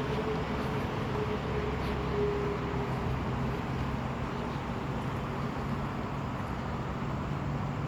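Steady motor-vehicle noise: a continuous rumble with a low, even engine hum.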